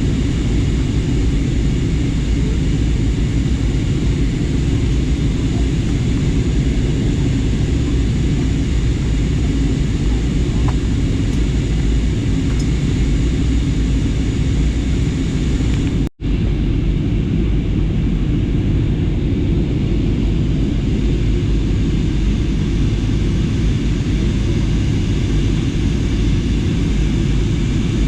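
Steady engine and airflow noise inside an airliner cabin in flight. The sound cuts out for a split second about sixteen seconds in.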